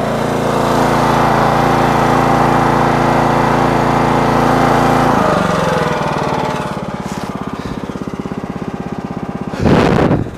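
Small gas engine of a towable backhoe running hard under hydraulic load, with a steady strained whine. About five seconds in it drops to a lower, evenly pulsing idle, and a brief loud surge comes near the end.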